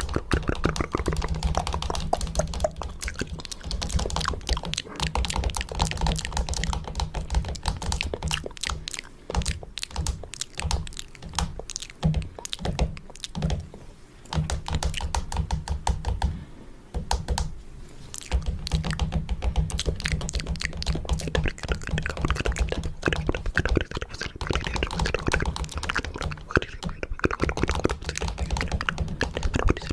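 Fingernails tapping rapidly on a camera, a dense run of quick clicks over dull low thumps. The tapping thins out partway through, then picks up again.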